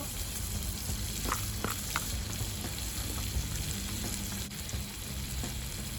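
Steady sizzling of food cooking over a wood fire, with a few sharp clicks between about one and two seconds in.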